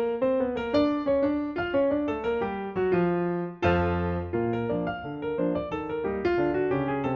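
Background piano music: a continuous run of notes, with a deeper bass chord coming in about three and a half seconds in.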